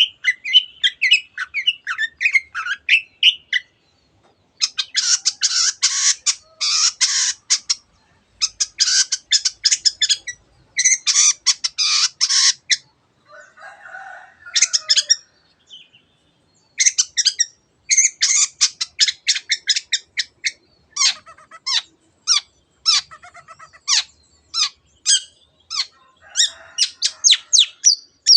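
Long-tailed shrike (cendet) singing in full voice: quick runs of short chirping notes alternating with dense, harsh rasping bursts, then a long series of sharp, separate notes.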